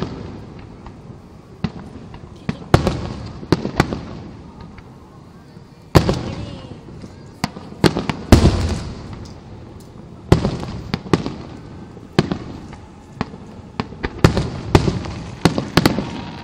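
Aerial fireworks shells bursting: a string of sharp booms, some in quick clusters, each trailing off in a long rumble.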